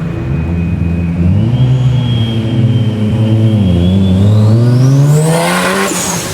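Modified car's engine accelerating hard, the revs climbing with a brief dip partway through and then a long rise, with a high whine rising alongside; the revs break off suddenly near the end.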